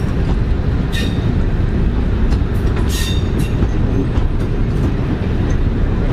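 Heritage diesel multiple unit running slowly into a station platform, heard from inside the train: a steady low rumble, with short sharp clicks about one second and again three seconds in.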